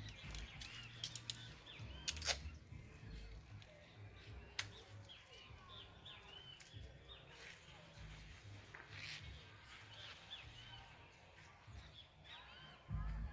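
Small birds chirping faintly, many short, high calls in quick succession, with a few sharp clicks about two seconds in and again near the middle.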